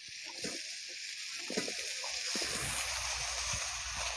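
Freshly cut raw potato chunks tipped into a hot wok of frying brinjal, the oil sizzling steadily, with a few soft knocks as pieces land in the first couple of seconds.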